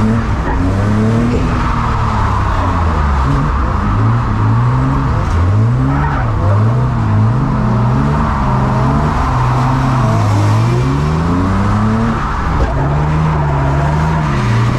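Several drift cars running in a tandem train, their engines revving up and down over and over as they slide, with tyre noise beneath. Two or more engines overlap, their pitches rising and falling out of step.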